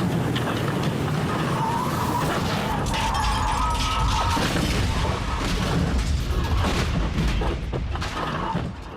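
Dashcam audio from inside a car struck by a semi-truck: loud rumbling road noise with repeated knocks and scraping, and a wavering squeal about two to four seconds in.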